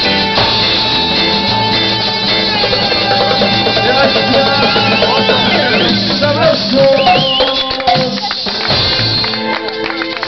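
A live band playing, with guitar over percussion and no singing. About a second before the end the low notes drop away and the percussion stands out.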